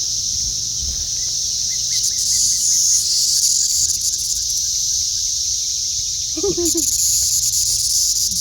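A chorus of cicadas in the trees, a steady high-pitched buzz that swells louder about two seconds in and again near the end.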